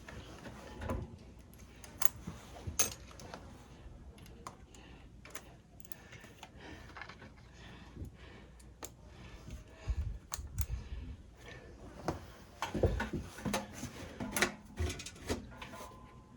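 Irregular light metal clicks, taps and a few knocks from hand work fitting the vent pipe onto a gas water heater.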